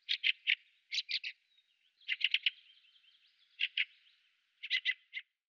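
Fieldfare's chattering call: five quick runs of two to six short rasping notes.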